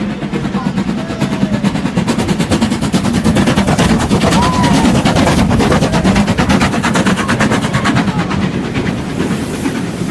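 A train passing close by: a loud, fast, even clatter that builds toward the middle and eases near the end.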